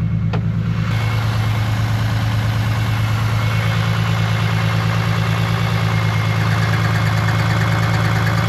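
Car engine idling steadily at a constant speed with an even, pulsing beat. There is a single click just after the start, and the sound cuts off suddenly at the end.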